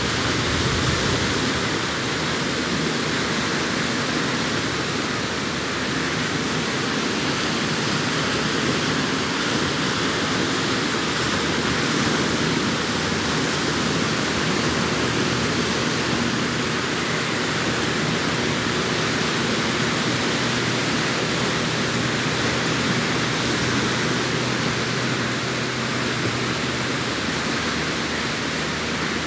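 Arabian Sea surf washing on the beach: a steady, dense rush of breaking waves with no distinct individual crashes.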